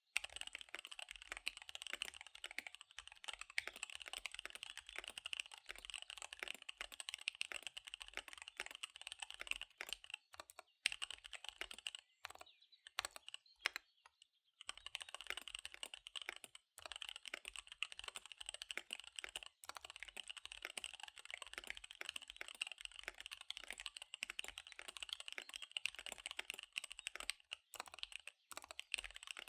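Fast typing on a KBD75 V3 mechanical keyboard with SP-Star Dark Magic Girl tactile switches and DSA keycaps: a rapid, dense run of keystrokes, with a brief pause a little before halfway before it picks up again.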